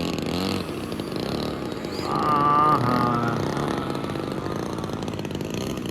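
A radio-controlled model airplane's engine running in flight, with a steady buzz that grows louder for about a second around two seconds in.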